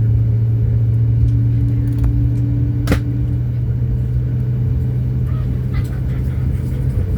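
Boeing 737 MAX 8's CFM LEAP-1B jet engines running, heard as a steady low drone over a rumble, with one sharp click about three seconds in.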